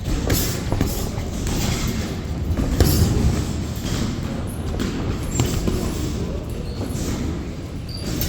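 Boxing sparring in a ring: irregular thumps and knocks of gloved punches and footwork on the ring canvas over a steady low rumble.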